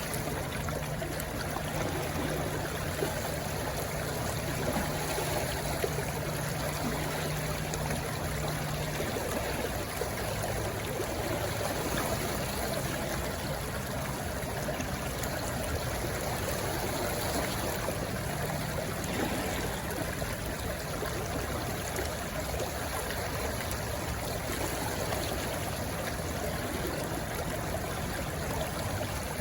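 Steady rushing of a stream flowing over stones into the sea.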